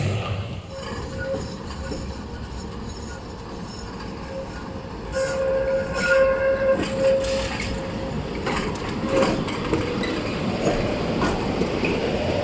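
Tram running on street track: a steady whining tone, strongest from about five to eight seconds in, over rail rumble, with a few clicks of wheels over rail joints.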